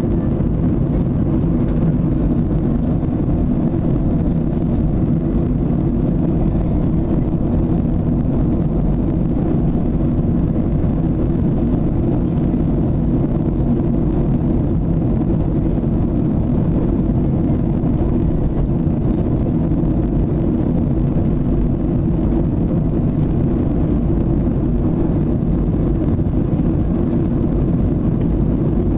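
Boeing 737 in flight: a steady low drone of engines and airflow, unchanging throughout.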